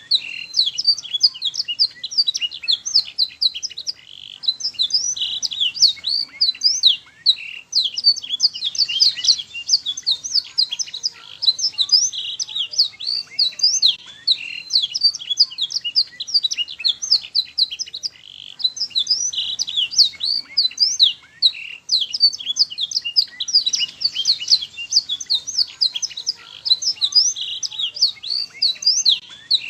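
Domestic canary song: a continuous, high-pitched run of fast chirps, trills and rising and falling whistled notes, broken by brief pauses.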